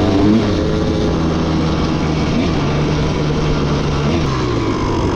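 Dirt bike engine running under steady throttle while riding, its pitch holding level and then dropping about four seconds in as the throttle comes off.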